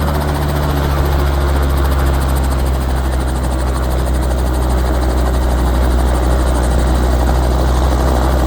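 Robinson R22 helicopter's two-blade rotor and piston engine running steadily and loudly, with an unchanging low drone throughout.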